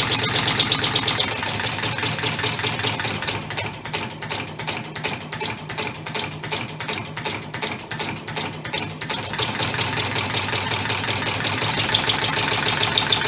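Homemade three-cylinder compressed-air engine running, with a fast, rhythmic clatter of exhaust puffs and hiss. About a second in it drops in level, and for several seconds it runs slower, with distinct strokes about four a second. It then runs faster and louder again near the end. It runs unevenly because its valve timing is hard to get exactly right.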